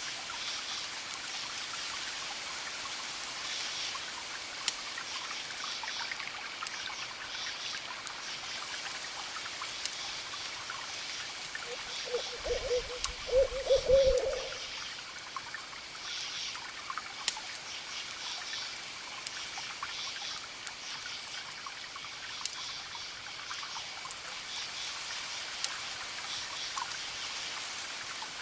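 Crickets chirping in a steady pulsing chorus over a soft wash of distant surf, with the sharp little cracks of a campfire here and there. About halfway through, an owl hoots a few times in quick succession.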